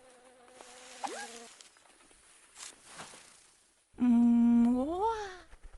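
A voice humming: a held low hum about four seconds in that then rises and falls in pitch, like a questioning 'hmm?'.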